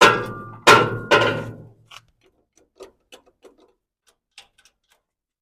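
Three loud knocks in quick succession, each ringing briefly, like metal being struck, followed by a few faint light clicks and taps.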